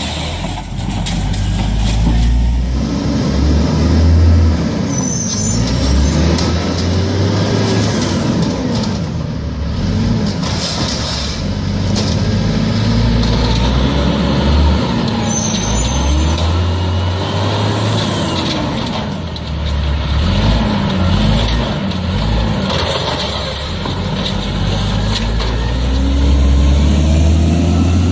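Garbage truck engine running loud, its pitch rising and falling again several times as it revs, with two brief high squeals, about five seconds in and again about sixteen seconds in.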